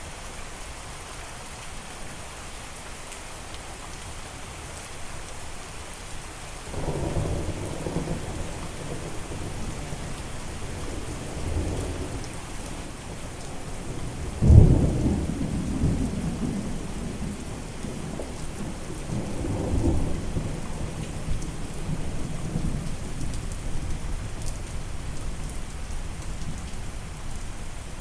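Steady rain with thunder: low rumbling starts about a quarter of the way in, a sharp clap of thunder comes about halfway and is the loudest sound, and further rumbles follow.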